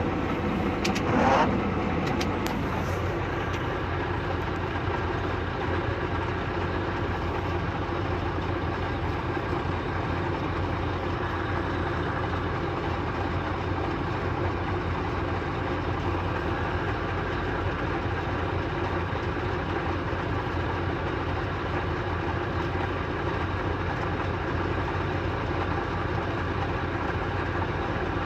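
A motor vehicle's engine running steadily, with a brief louder sound about a second in.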